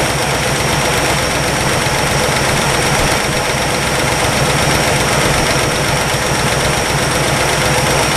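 1962 Chevrolet engine, freshly woken after 35 years parked, idling steadily while it warms up.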